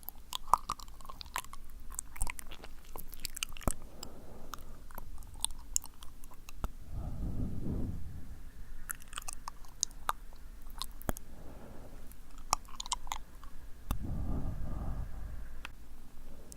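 ASMR mouth sounds close to the microphone: sticky, wet clicks and smacks of lips and tongue, with two soft breaths, about seven seconds in and again near the end.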